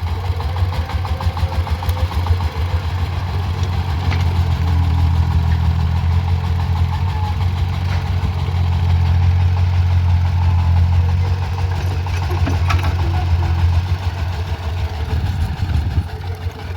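Diesel engine of a JCB digging machine running steadily with a low hum, a few faint knocks over it, easing off a little in the last few seconds.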